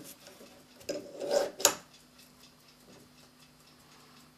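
A steel clock mainspring being handled on the bench: a short rub and a sharp metal click about a second and a half in, then only a faint steady hum.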